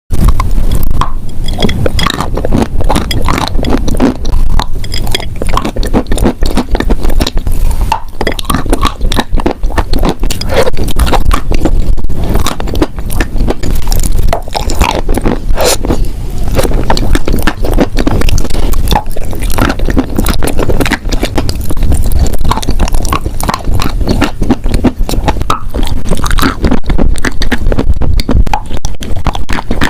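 Close-miked biting and chewing of wet chalk: a steady stream of soft crunches, crackles and scrapes in quick, irregular succession.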